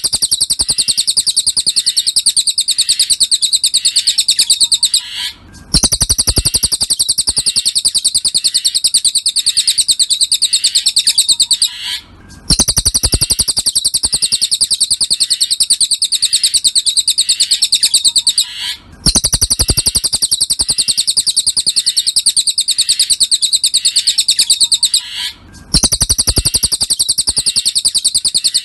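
Cililin songbird song: a fast, continuous run of high-pitched chirping notes in stretches of about six seconds, each broken by a brief pause and repeating alike, as in a looped masteran (song-tutoring) recording.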